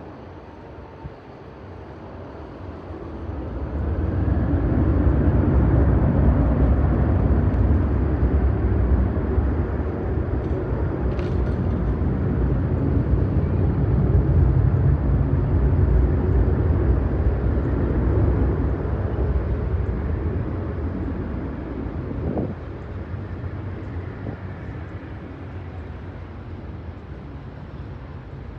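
Airbus A320-family jet airliner flying overhead: a jet roar with a deep rumble that swells quickly a few seconds in, stays loud for about fifteen seconds, then slowly fades away.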